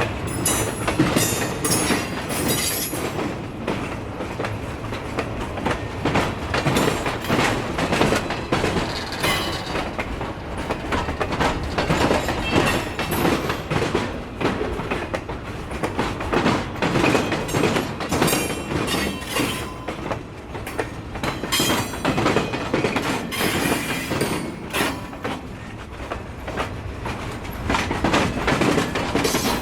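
Freight train rolling past, wheels clacking and knocking over rail joints, with brief high squeals from the wheel flanges in the first few seconds and again near the end.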